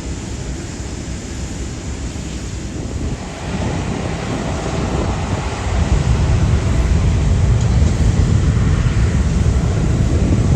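Jet airliner engine noise, a deep rumble with a rushing hiss above it. It grows louder about a third of the way in and again just past halfway, then stays loud.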